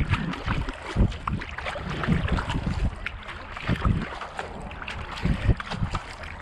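Kayak paddle strokes dipping and pulling through the water at a steady racing pace of about one stroke a second, with water swishing along the hull and wind buffeting the microphone.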